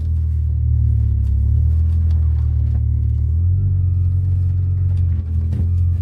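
Hyundai Tiburon GT's V6 engine running steadily under way, heard from inside the cabin, its drone shifting slightly in pitch about halfway through.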